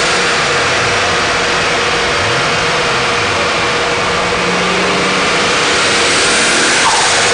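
Turbocharged VR6 engine of a VW Golf III running loud on a chassis dynamometer, a steady rush of noise with the engine note climbing about two seconds in and holding high. A short falling tone comes near the end.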